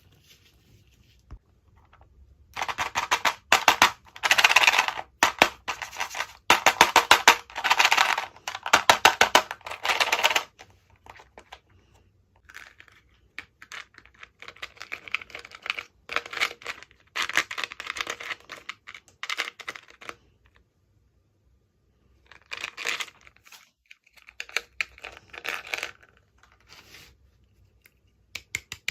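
Toy packaging being torn open and crinkled by hand in crackling, rustling bursts. A loud stretch of several seconds comes first, then quieter handling, then two short bursts near the end.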